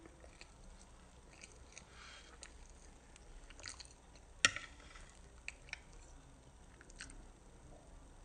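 Close-up wet chewing and mouth smacks of a child eating pancake, with faint scattered clicks and one sharp click about halfway through.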